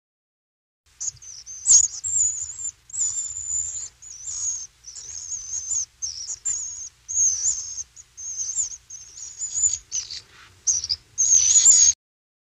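Small birds chirping and singing in a string of high, wavering, warbling calls with short breaks, over a faint low rumble. The calls start about a second in and cut off suddenly near the end.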